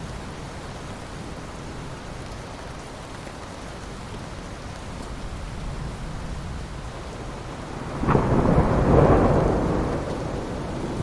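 Steady rain falling on ocean water. About eight seconds in, a sudden, much louder rush starts sharply, swells and fades over about two seconds.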